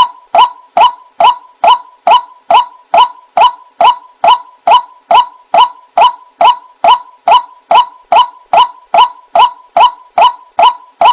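White-breasted waterhen (ruak-ruak) calling: one short, sharp note repeated at an even pace of about two and a half calls a second, played as a bird-lure recording.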